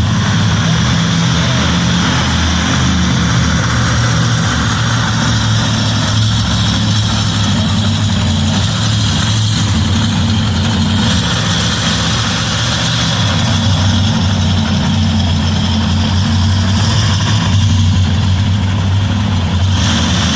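Monster truck engine running loudly at a steady low idle.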